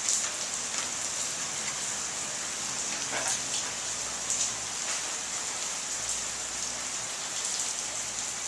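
Steady hiss of rain falling, with a few faint light knocks.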